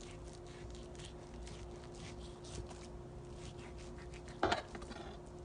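Kitchen knife slicing raw chicken breast thin on a cutting board: a run of faint, quick cuts, with one louder knock of the blade or board about four and a half seconds in.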